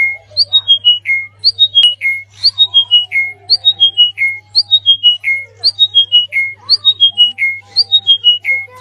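A songbird calls a short phrase of about five notes that step down in pitch from high to lower, repeated at an even pace about once a second. There is faint chirping underneath and a steady low hum.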